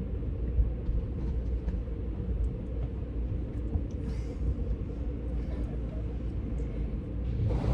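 Steady low rumble heard from inside a car's cabin at an automatic car wash, with a few faint ticks; near the end a hiss begins to rise.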